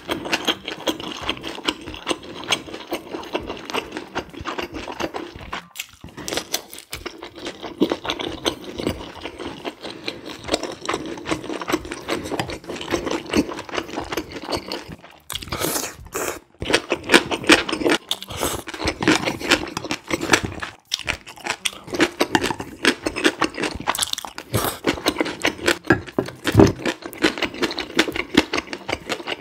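Close-miked chewing and wet mouth-smacking of a person eating rolled omelette and thin wheat noodles with spicy stir-fried pork and squid, a quick run of small clicks and smacks.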